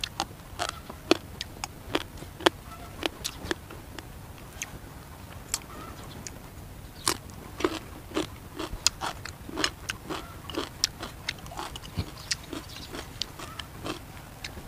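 A man chewing and smacking his lips as he eats rice with grilled crab prahok: irregular sharp, wet mouth clicks, several a second.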